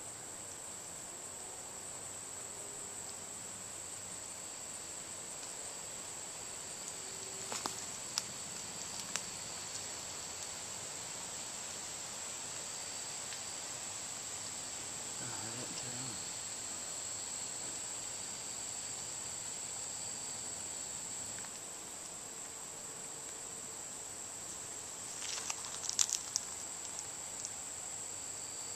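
Steady high-pitched insect chorus, a continuous shrill drone. A few brief clicks and knocks come about 8 seconds in and again about 26 seconds in.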